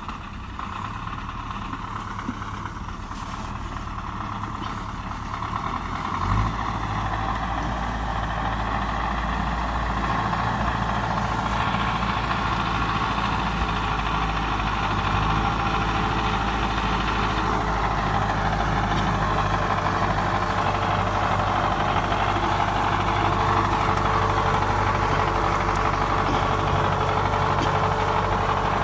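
Heavy truck engine running steadily, growing louder over the first ten seconds, with a low thump about six seconds in.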